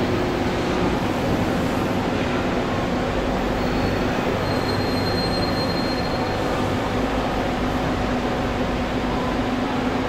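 Electric commuter train at a station platform: a steady rumble and hum, with a thin high whine from about a third of the way in to just past the middle.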